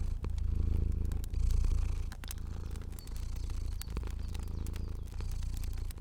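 A cat purring: a low, continuous rumble that swells and eases with each breath. Fire crackling with scattered sharp pops and snaps runs alongside it.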